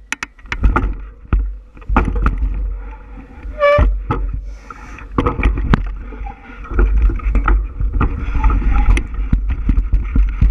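Bicycle riding over a rough trail: wind buffeting the microphone with a constant low rumble, over irregular rattles and knocks from the bike jolting on the surface. There is one short squeak a little under four seconds in.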